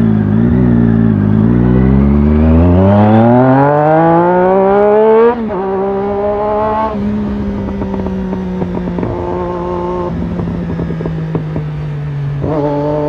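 Triumph Daytona 675R's inline three-cylinder engine through an aftermarket Torque exhaust, revved in a long steady climb for about five seconds, then dropping abruptly back to a steady idle, with a brief throttle blip near the end.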